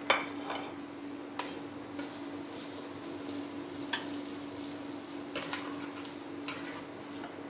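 Chopped onions and crushed ginger-garlic sizzling in hot oil in a terracotta pot while a metal ladle stirs them, knocking and scraping against the pot a handful of times. A steady low hum runs underneath.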